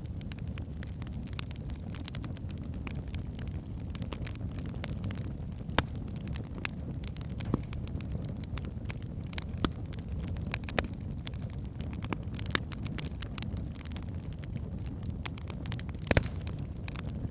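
Wood fire burning in a fireplace: a steady low rumble of flames with scattered sharp crackles and pops of the burning logs, a few louder pops about six, ten and sixteen seconds in.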